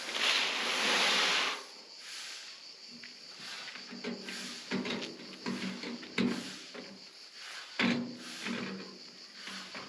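A long scrape for about the first second and a half, then scattered knocks and clatter: digging out and shifting broken soft slate rock by hand.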